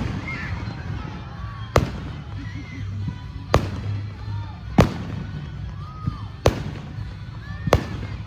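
Aerial fireworks shells bursting: five sharp bangs, one every one to two seconds.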